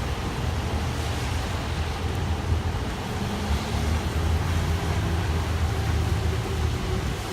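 Road traffic on a busy city avenue: vehicle engines running with a steady low hum and constant roadway noise.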